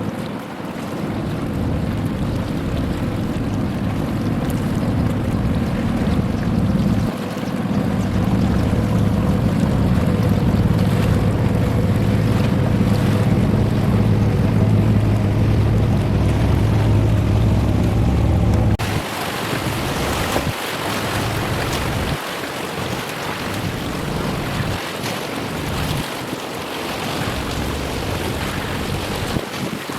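Wind buffeting the microphone over the low steady rumble of a large ship's engine passing close by. About two-thirds of the way through the sound changes abruptly: the deep rumble drops away, leaving gusty wind and a hiss of water.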